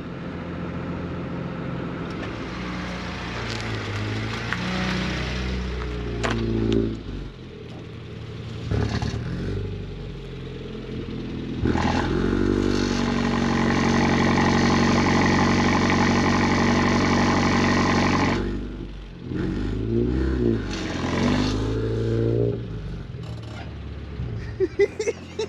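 Dodge 2500's 12-valve Cummins inline-six turbodiesel pulling under acceleration: the revs climb, drop off at about 7 s and again around 19 s, and run loudest and steady for about six seconds in the middle.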